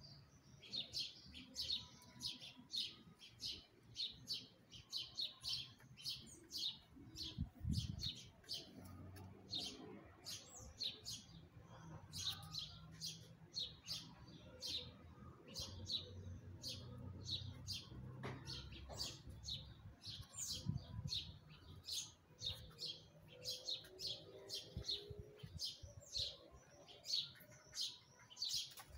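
A small bird chirping over and over, a short high chirp about two to three times a second, with a low rumble in the middle stretch.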